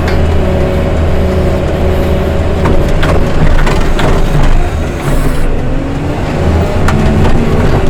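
Engine of a heavy snow-removal machine running steadily under load, its pitch dipping and recovering about halfway through, with a few sharp knocks and clicks over it.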